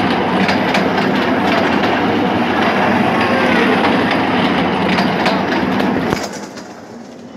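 Party ride-on toy train running, a steady rolling rattle with faint clicks that drops away sharply about six seconds in.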